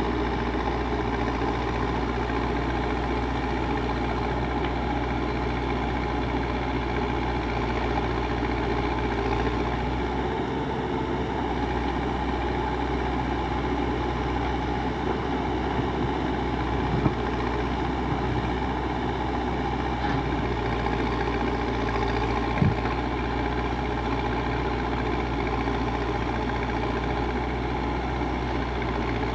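Backhoe loader's diesel engine running steadily, with two short knocks, one a little past the middle and one later.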